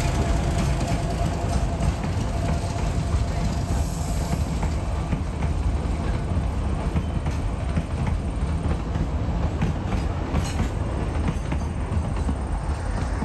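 Narrow-gauge train rolling past, its steel wheels clicking over the rail joints over a steady low rumble.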